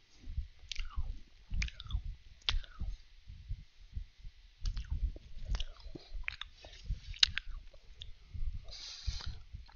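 A person chewing crisp Danish butter cookies close to a headset microphone: irregular soft crunches and wet mouth sounds, with another bite into a cookie near the end.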